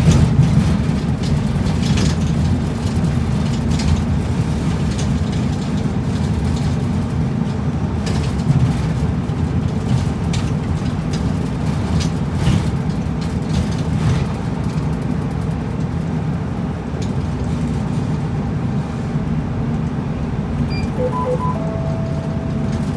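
Route bus under way, heard from inside: steady engine and road rumble with scattered rattles of the body and fittings. A few short electronic beeps and one held tone sound near the end.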